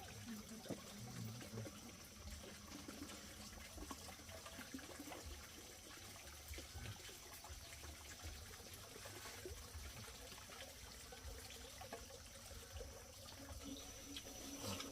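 Faint ambience: a soft trickle of running water, with a steady high thin tone and a few small ticks.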